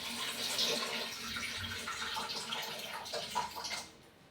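Tap water running and splashing while rice is rinsed, stopping shortly before the end.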